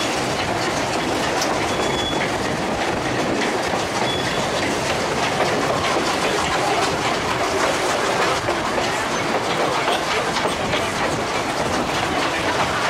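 Durango & Silverton narrow-gauge train running along the track: a steady rumble and clatter of the coaches' wheels on the rails.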